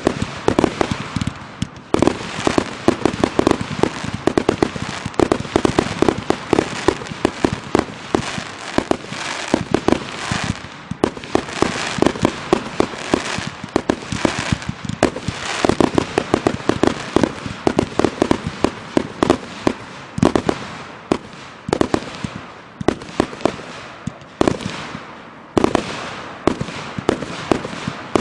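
Consumer aerial firework cake firing a rapid barrage of shots, a dense stream of sharp bangs, several a second, with a brief lull about two seconds in.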